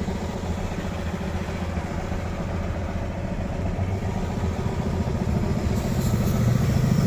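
Diesel engine of a UD Trucks Nissan Quester CWE 280 truck idling steadily, a little louder near the end.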